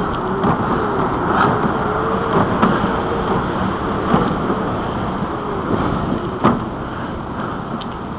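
Steady rumble of wind and tyres from a bicycle ridden along a trail, with a few sharp knocks and rattles over bumps and a faint wavering squeak in the first few seconds.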